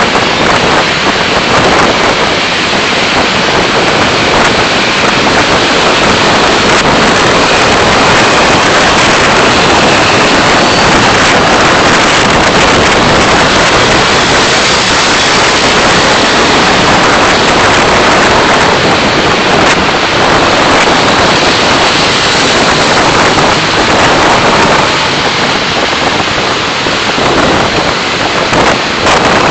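Steady, loud rushing noise of a car being driven: road and wind noise as picked up by a dashcam microphone.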